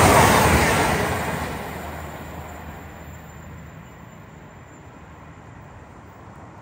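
A train passing through at speed, its noise fading away over about three seconds as it draws off, leaving a low, steady background.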